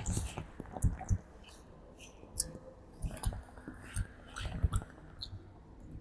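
Irregular wet clicks and smacks of a monkey grooming, picked up close to the microphone.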